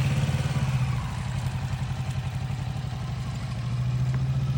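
Motorcycle engine running at low speed with a steady, even pulse, easing off about a second in and picking up slightly again near the end.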